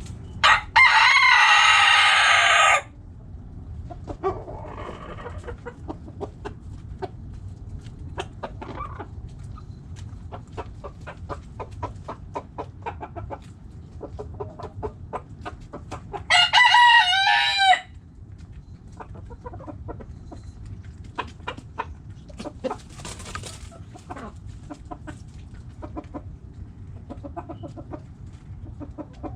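Backyard chickens: a rooster crows loudly twice, once about half a second in and again about 16 seconds in. Hens cluck with many short, quick calls in between.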